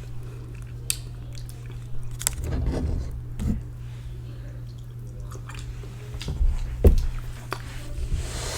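A person chewing a mouthful of ramen noodles close to the microphone, with a few sharp clicks, the loudest about seven seconds in, over a steady low hum.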